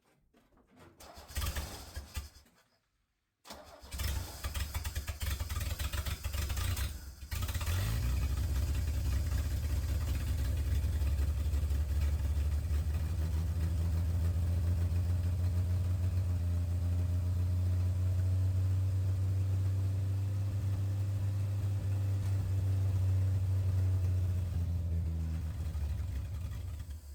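1968 Chevy C20's inline-six engine, fed by a freshly rebuilt Rochester Monojet carburetor, cranks in two rough bursts and catches about eight seconds in. It then runs steadily at idle and cuts off near the end.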